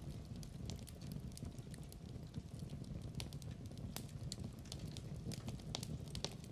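Wood fire burning in a fireplace: irregular sharp crackles and pops over a low steady rumble, with one louder snap about four seconds in.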